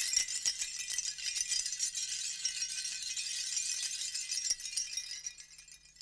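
A hand rattle of many small hard pieces, a prehistoric-style percussion instrument, shaken continuously in a dense, bright clatter that dies away over the last second.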